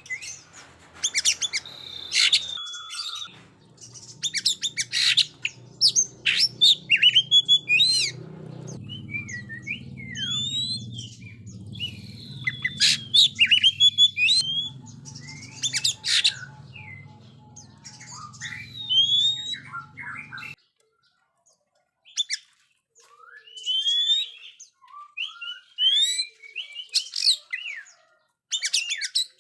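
Oriental magpie-robin (kacer) singing a loud, varied song: quick rising and falling whistled phrases mixed with harsh, rasping notes.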